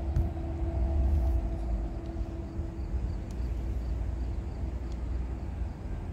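Commuter train of bilevel coaches running past: a steady low rumble with a steady hum on top.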